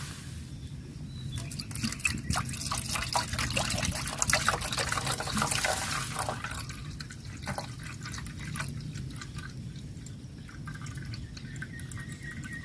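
Water dripping and splashing, many drops in quick succession, busiest in the first half and thinning out later, over a steady low background noise.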